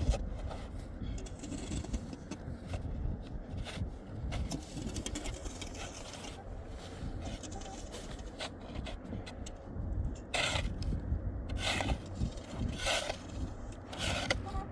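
Scraping and rubbing, with several short, sharper scrapes in the last few seconds, over a steady low rumble.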